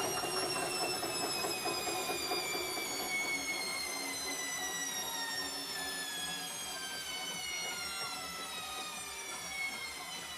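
ELIN A 100 E washing machine's motor and drum whining and slowly falling in pitch as they coast down, getting gradually quieter: the machine slowing after a spin.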